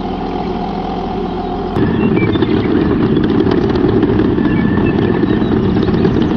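A vehicle engine running steadily. About two seconds in it cuts abruptly to a louder, fuller running sound.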